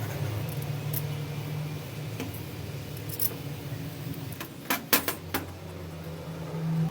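Metal tools and parts clinking and clattering in a few sharp knocks, three of them close together about five seconds in, over a steady low hum.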